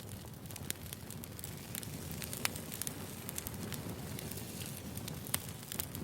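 Burning firewood crackling: a steady low rumble of flames under irregular sharp pops and snaps, two of them louder, about two and a half and five and a half seconds in.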